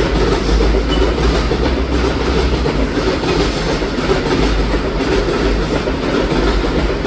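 Freight train passing close by: a steady, loud rumble of its wagons running on the rails.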